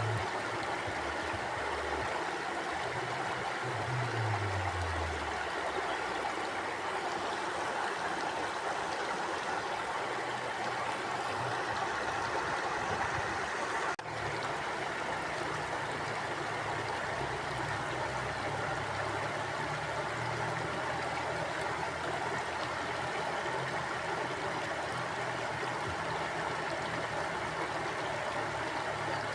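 River water flowing steadily, an even, continuous rush of water with some low gurgling underneath. A momentary dip in level about halfway through.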